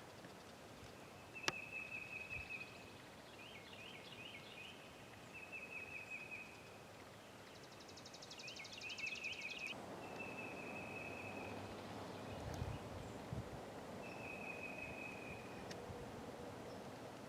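Songbirds singing in woodland: one bird repeats a short, even trill every few seconds, while others add higher buzzy trills and warbling phrases. A single sharp click comes about a second and a half in, and from about ten seconds in a soft rustling hiss builds underneath.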